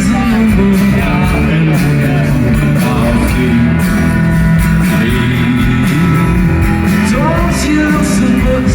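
Live concert music from a band, loud and steady throughout.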